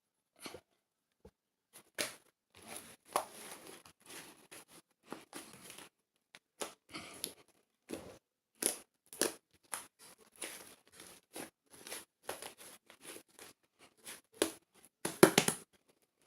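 Light pink whipped-cream slime being squished and stretched by hand, making a run of irregular sticky crackles and pops. The loudest cluster comes near the end.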